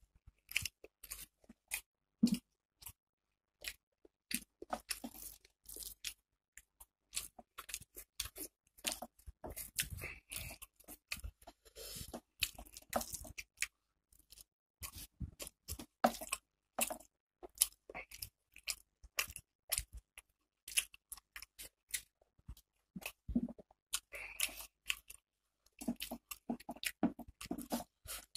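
Close-up chewing and lip smacking of a mouthful of rice and curry: a string of short, wet, irregular smacks and clicks.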